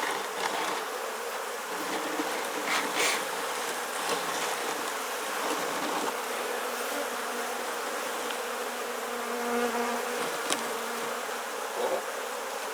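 Honeybees buzzing in a steady hum around an open Langstroth hive, with a few faint knocks about three seconds in and again near the end.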